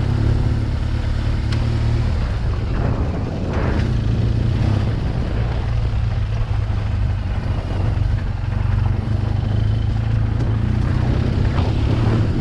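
BMW R1200 GS flat-twin motorcycle engine running at low speed over rough, bumpy ground, with a steady low engine note.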